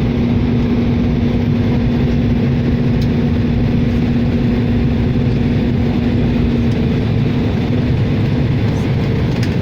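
Small aircraft's engine and propeller droning steadily in flight, with a held hum that fades away about seven seconds in.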